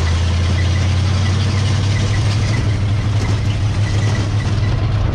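Car engine droning and road rumble while driving, heard from inside the car; the engine note rises slightly in pitch about a second in and then holds steady.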